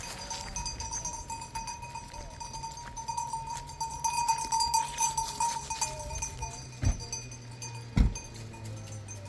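Small bells ringing and clinking steadily, with two dull thumps about seven and eight seconds in.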